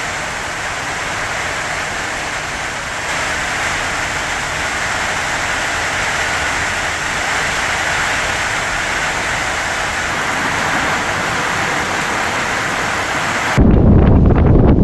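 Heavy rain falling as a steady, even hiss. Near the end it cuts off abruptly to strong wind buffeting the microphone, louder and much deeper.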